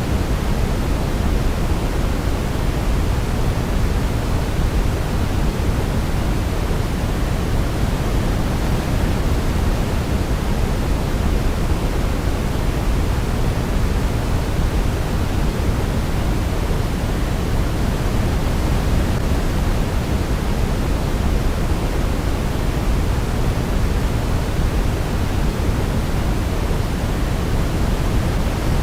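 Steady sleep-aid white noise: an even, deep rushing hiss, heavier in the low end than the highs, that does not change.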